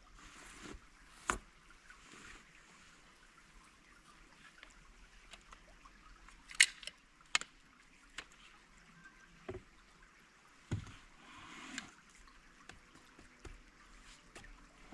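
Scattered sharp clicks and knocks over a faint steady background, the loudest about six and a half seconds in.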